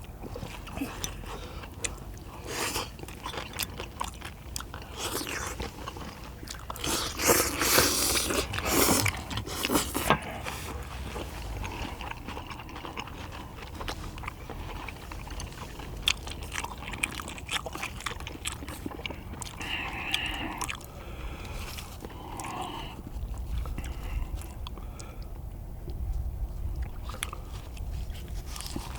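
Close-up eating sounds of people chewing a meal of spicy stir-fried small octopus with noodles: wet chewing, biting and smacking with many small clicks, louder for a few seconds about a quarter of the way in.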